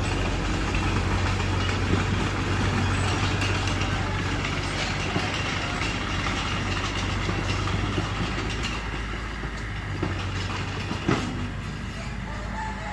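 Mitsubishi BD2F bulldozer's diesel engine running steadily under load, with its tracks clattering and a few sharp metallic clanks.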